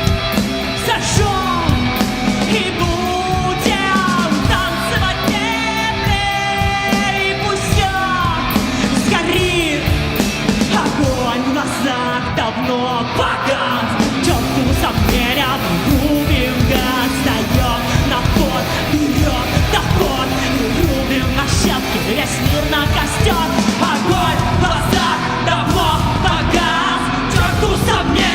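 Rock band playing loud guitar-driven alternative rock with drums, with a female vocalist singing and shouting over it.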